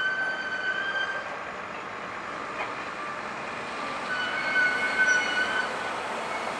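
Heavy truck moving slowly, with a steady high-pitched whine that fades out about a second in and comes back over the second half.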